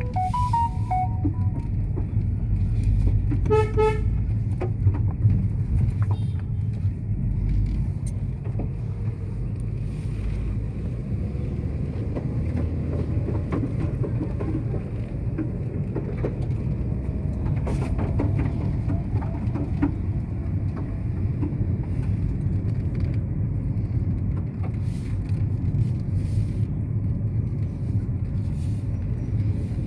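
Motor vehicle running on the road with a steady low rumble and road noise. A horn toots briefly near the start and again in a quick series of short beeps about four seconds in.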